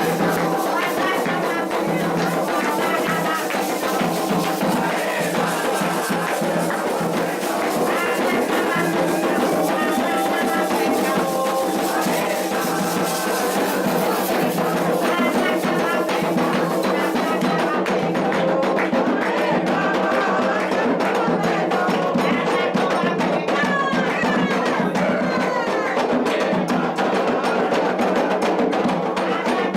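Candomblé ritual music: drums and other percussion with many voices singing together, going on steadily without a break.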